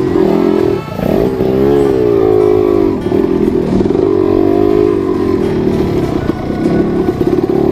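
Trail motorcycle engine revving up and down repeatedly, the throttle opening and closing as the bike rides over rough ground.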